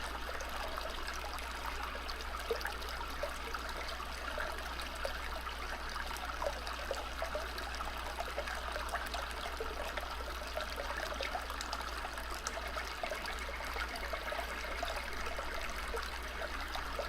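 A stream babbling and trickling steadily, with a constant low rumble underneath.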